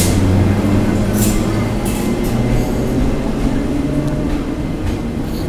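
Locomotive-hauled passenger train pulling out of a station: a steady low drone whose pitch edges upward as it gathers speed, with a few short high hisses early on.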